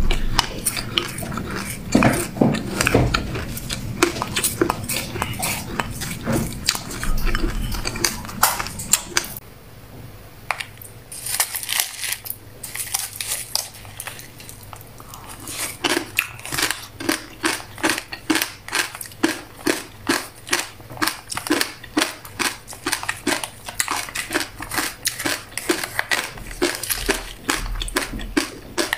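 Close-miked crunchy chewing of black sesame seeds. About a third of the way in it goes quieter for a few seconds, then comes steady rhythmic crunching of buckwheat kernels, roughly one and a half chews a second.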